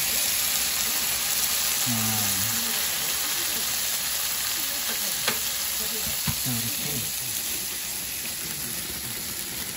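Pork belly slices and kimchi frying in a hot skillet: a steady sizzle, with a few sharp pops of spitting fat about halfway through.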